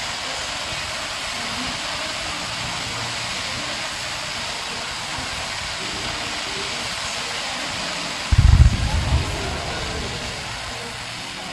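Fireworks: a steady, dense hiss of burning sparks and smoke, then about eight seconds in a quick cluster of deep booms from shells going off.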